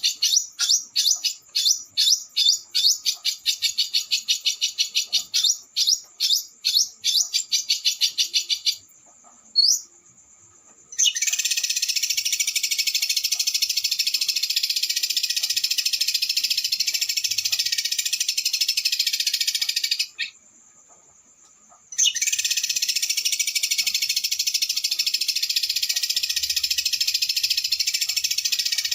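Small songbird's high, rapid song: a quick series of sharp chirps, about three or four a second, then after a brief pause one rising whistle, then a long, dense, fast rolling trill. The trill breaks off abruptly for about two seconds and resumes.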